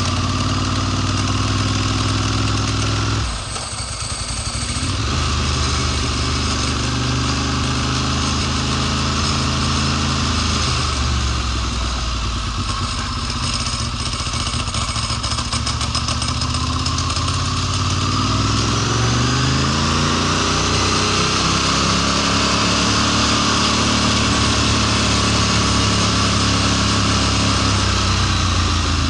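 2002 Ducati Monster S4's 916 cc L-twin engine running steadily. The note dips briefly about three seconds in, then recovers, and the pitch climbs later on as the engine revs up.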